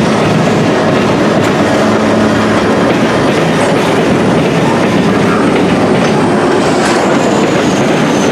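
Train wheels clattering steadily over rail joints and a diamond crossing as a maintenance-of-way train reverses across, with a faint high wheel squeal near the end.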